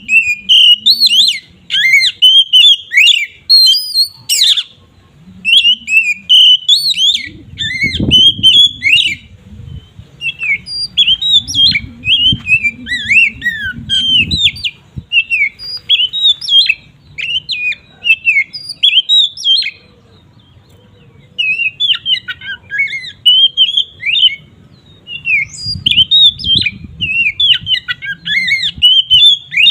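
Oriental magpie-robin (kacer) in full open song: rapid runs of varied whistled, sweeping and chattering notes in bursts of a few seconds, broken by short pauses.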